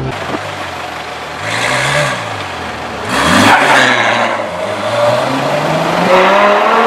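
Mercedes A45 AMG's turbocharged 2.0-litre four-cylinder through an iPE aftermarket exhaust, accelerating: the exhaust note swells loudly about one and a half and three seconds in, then rises steadily in pitch toward the end.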